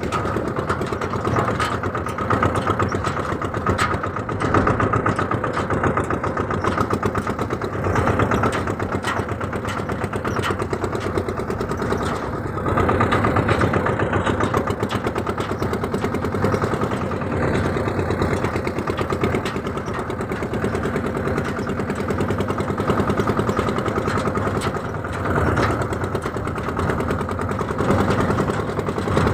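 Massey Ferguson tractor's diesel engine running steadily, swelling in loudness now and then.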